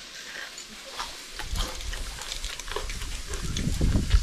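Close-up chewing of a mouthful of fried fish: wet smacking with small crisp clicks, growing louder over the last couple of seconds.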